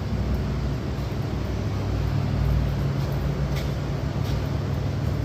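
A steady low mechanical hum over a faint hiss, unchanged throughout.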